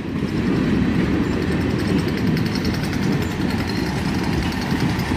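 Freight train rolling past with a rapid, weird rattling: the lids on tank cars rattling and jumping up and down as the cars go by.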